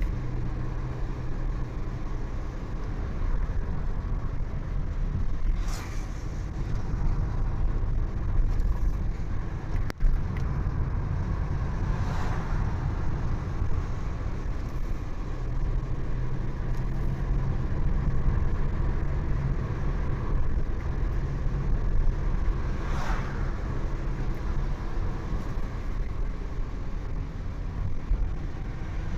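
Steady engine hum and road rumble of a vehicle on the move, with other vehicles rushing past three times. There is a sharp click about ten seconds in.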